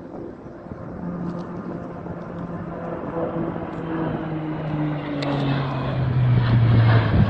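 Twin-turboprop airliner, a Bombardier Q400, flying low past. Its propeller drone grows steadily louder and slides down in pitch as it goes by.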